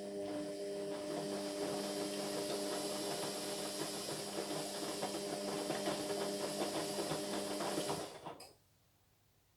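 Indesit MyTime washing machine running with a steady motor hum and a dense rattle, then stopping abruptly about eight and a half seconds in.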